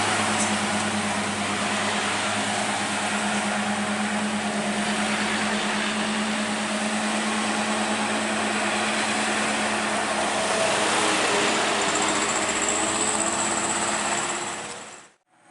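Old truck's engine running with a steady hum, the sound cutting off abruptly near the end.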